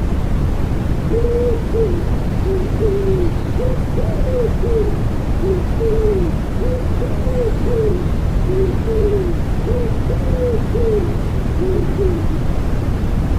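Common wood pigeon cooing: a run of soft, repeated low coo phrases that starts about a second in and stops near the end. Underneath is a steady, even white-noise bed heaviest in the low end.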